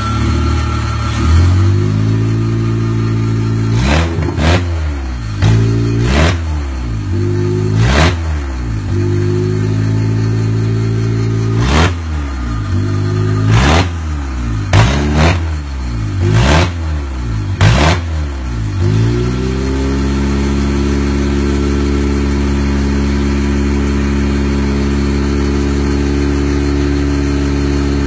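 Honda K24 2.4-litre inline-four engine, run before being installed, idling and blipped in about a dozen quick revs over the first twenty seconds, each rising and falling back. It then settles to a steady, higher held speed.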